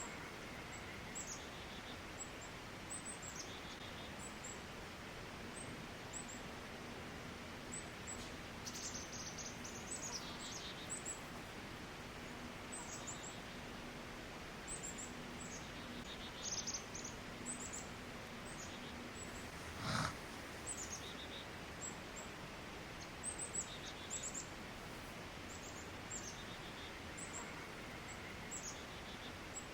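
Quiet woodland ambience with small birds giving short high chirps and calls on and off throughout. A faint steady low hum runs through the middle, and a single knock sounds about two-thirds of the way in.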